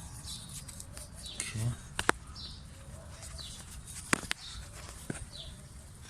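A few sharp metallic clicks of hand tools working at the bolts of a front wheel hub: a quick pair about two seconds in, another pair a little after four seconds, and one more near the end. Small birds chirp repeatedly in the background.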